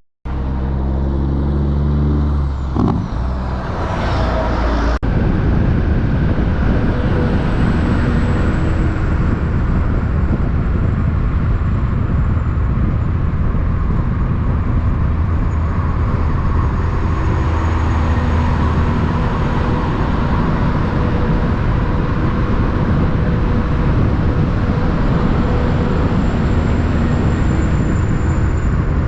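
Big-rig truck diesel engine running steadily, with an abrupt cut about five seconds in.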